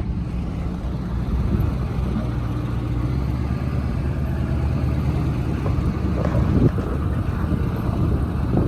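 A 1971 Insley excavator's diesel engine running steadily, with one brief louder knock about two-thirds of the way through.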